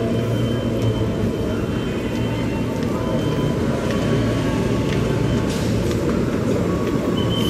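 Passenger train running, heard from on board: a steady rumble with a low hum and faint high-pitched whines. A thin high tone sets in near the end.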